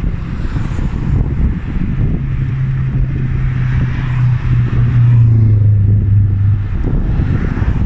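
Wind buffeting the microphone while riding, a steady low rumble. An engine hum rises out of it about a second in, drops slightly in pitch and fades out near the end.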